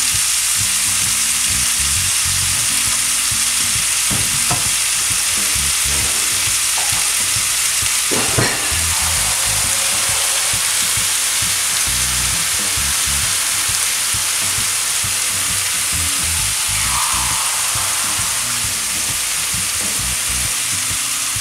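Chicken pieces with onion, peppers and tomato sizzling steadily in a stainless steel sauté pan. A single short knock about eight seconds in.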